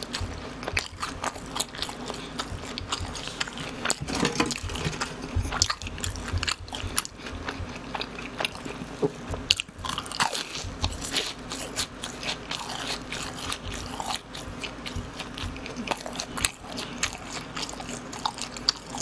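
Chewing and crunching of BHC cheese balls, fried dough balls with a crisp shell and a soft cream-cheese-like filling, close to the microphone. The bites and crunches come irregularly and keep going throughout.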